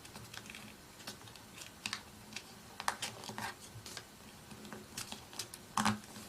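A sheet of paper being handled and folded: irregular soft crinkles and taps as an edge is folded to the middle and creased, the loudest crinkle near the end.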